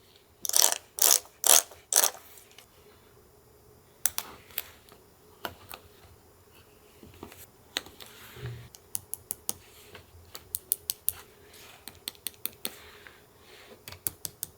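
Paper-crafting sounds: a few loud crinkling rustles of paper in the first two seconds, then a long string of short, sharp clicks that come in quick runs.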